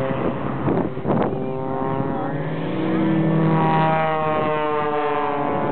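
Propeller engines of Extra 300 aerobatic aircraft running through a display manoeuvre, their drone sliding up and down in pitch and rising most in the middle.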